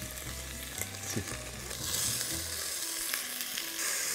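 Halved cherry tomatoes, olives and capers sizzling in hot olive oil in a stainless steel pot while being stirred with a silicone spatula; the sizzle grows louder about two seconds in.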